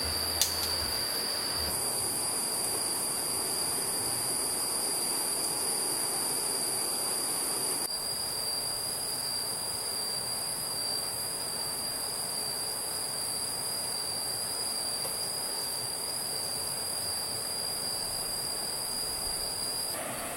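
Insects droning in steady high tones over the even rush of a stream, with a single sharp click about half a second in. The background changes abruptly about two and eight seconds in.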